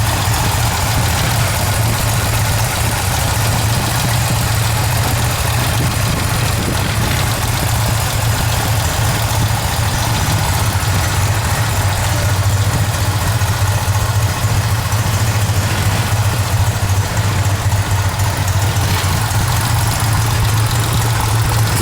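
A 1972 Benelli Tornado 650S's parallel-twin engine idling steadily.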